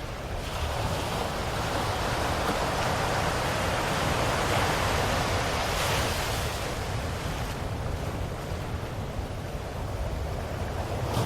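Ocean waves washing onto a shore: a steady hiss of surf that swells to a peak in the middle, eases off, and begins to build again near the end.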